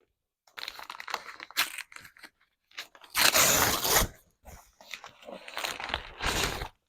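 Packaging being torn open and crinkled in several noisy bursts, the loudest about three seconds in.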